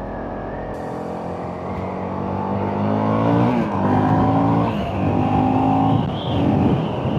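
Honda CRF 450RL's single-cylinder four-stroke engine accelerating under way. Its pitch climbs, drops about three and a half seconds in as it shifts up, climbs again and drops once more about five seconds in.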